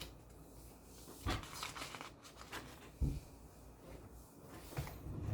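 Handling noises: rustling with a few soft knocks, one about a second in, one about three seconds in and a smaller one near the end.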